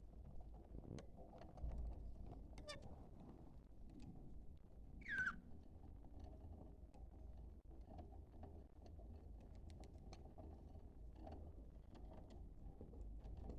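Budgerigar giving one short call that slides down in pitch about five seconds in, over a faint low hum and scattered light ticks.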